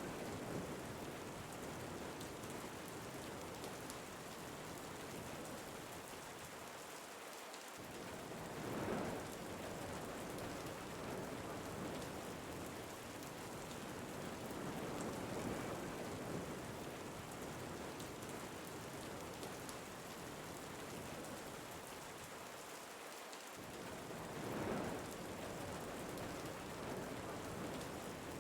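Rain and wind ambience: steady rain hiss that swells and eases slowly, with two louder gusts.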